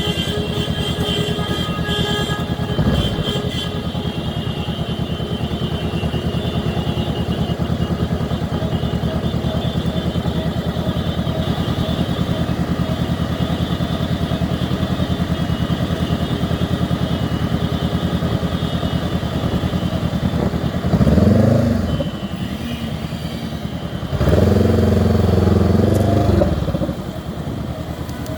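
Honda CB 500X parallel-twin motorcycle engine running steadily on the move. Two louder sounds with changing pitch stand out: a short one about two-thirds of the way in and a level one held for about three seconds near the end.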